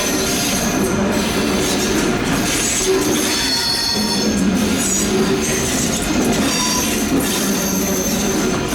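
Train wheel flanges squealing against the rails in a tight curve over a steady rumble of rolling wheels. Several high squealing tones come and go, the strongest about three to four seconds in.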